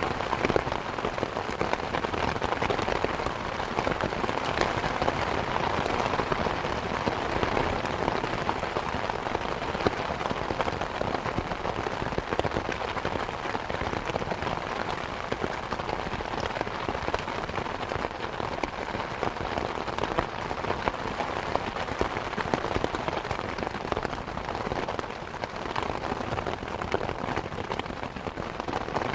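Steady rain, a dense patter of many small drops hitting surfaces, holding an even level throughout.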